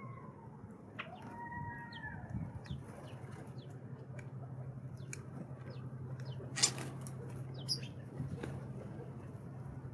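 Small birds calling with short, sharp, high chips scattered through, plus two longer rising-and-falling calls in the first two seconds, over a steady low hum. A single sharp click sounds about six and a half seconds in.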